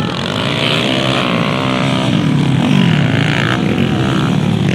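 Several motocross dirt bike engines revving together, their pitches rising and falling and overlapping as the riders accelerate and shift.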